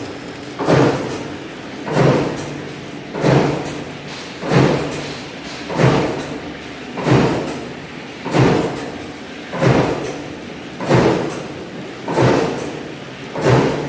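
Heavy strikes repeating steadily, about one every 1.3 seconds, each dying away briefly after the blow.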